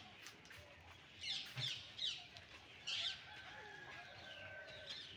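Faint bird calls, chickens among them: four short, sharp chirps in the first three seconds, then a long steady high call near the end.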